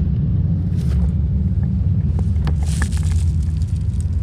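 Outdoor unit of a 2-ton Sanyo heat pump from about 2000 running, its compressor and four-blade condenser fan giving a steady low hum. A few light clicks and rustles sound over it from about a second in.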